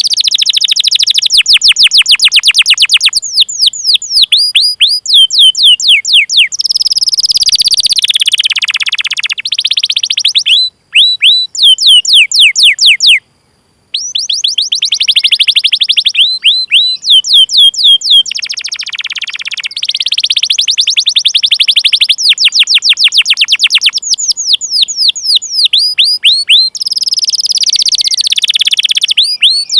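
Domestic canary singing: fast runs of sharp, repeated, downward-sliding 'cuit cuit' chirps alternating with denser rolling trills. The song breaks off for about a second near the middle.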